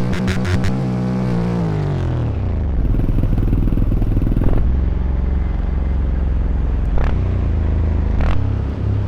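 Dirt bike engine running: its pitch falls over the first two seconds as it slows, then it settles into a low, steady drone. A couple of sharp clacks come about seven and eight seconds in.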